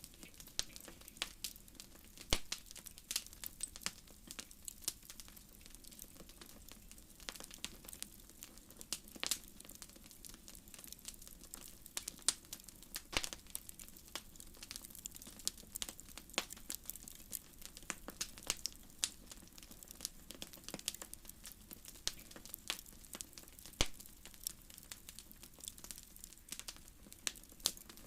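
Fireplace fire crackling: irregular sharp pops and snaps over a faint steady hiss, with a couple of louder pops standing out.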